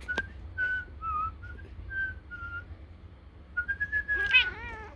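A person whistling a run of short, clear notes, then one longer note. Near the end, a cat answers with a short, warbling, bird-like chirp.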